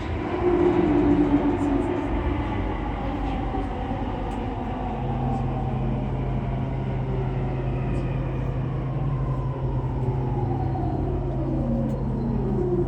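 Running noise of an E231 series 800 commuter train from inside the car as it brakes into a station. The traction motor whine falls steadily in pitch as the train slows, and a steady low hum comes in about five seconds in.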